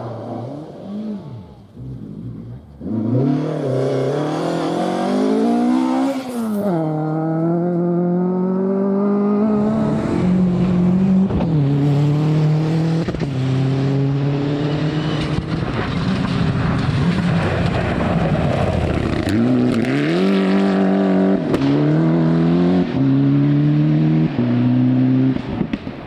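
Rally car engine at full throttle, its pitch climbing and dropping back at each upshift through the gears. Partway through it briefly lifts off and comes down in pitch, then accelerates hard through the gears again.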